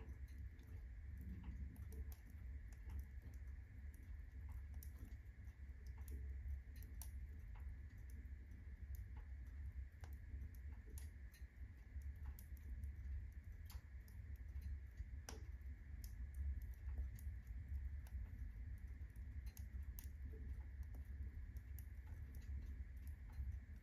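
Firewood burning at full blaze in a fireplace: irregular light crackles and pops over a low steady rumble of the flames, with a faint steady whine in the background.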